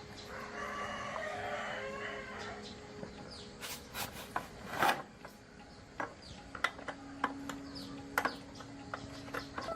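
A rooster crows for about two seconds near the start. Several sharp knocks follow around the middle, the loudest about five seconds in, then scattered light clicks.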